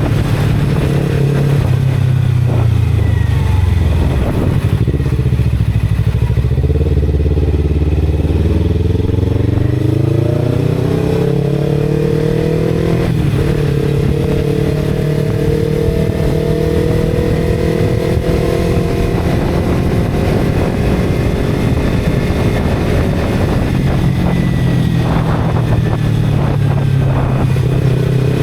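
Motorcycle engine running while riding: the revs fall over the first few seconds, stay low, then climb about ten seconds in and hold steady, easing off and picking up again near the end.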